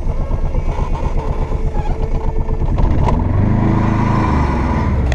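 2008 Aixam A721 microcar's small two-cylinder diesel engine running with a rapid, even chugging. It revs up a little over halfway through and eases back near the end.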